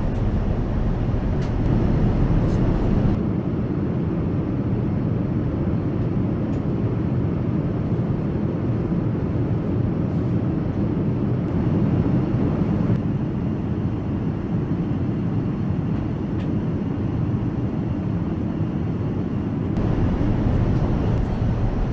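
Steady cabin noise inside an Airbus A380 airliner: an even low rumble of engines and airflow. Its tone shifts abruptly about three seconds in and again near the end.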